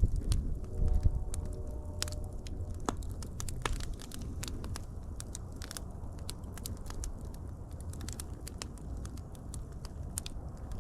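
Wood fire crackling, with frequent sharp pops and snaps over a low, steady rumble of burning.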